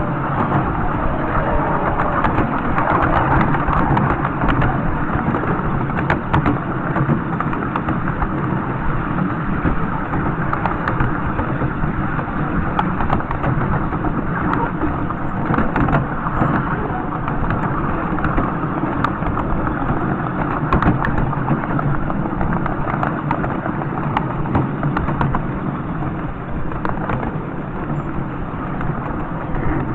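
A miniature railway train running: a steady loud rumble of wheels on track, with scattered short clicks.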